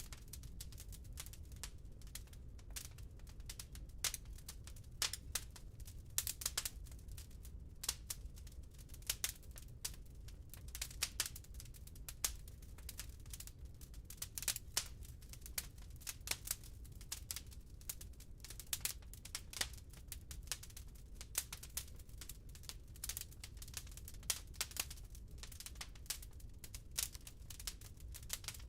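Wood fire burning in a fireplace, the logs crackling and popping in quick irregular clicks over a low steady rumble of the flames.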